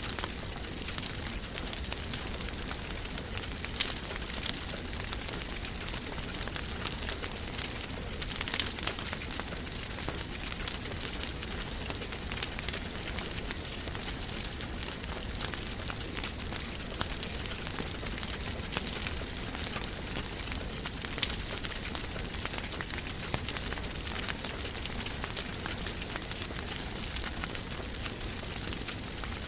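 Wood fire crackling in a fireplace: a steady hiss of fine crackle with a few sharp, louder pops scattered through it.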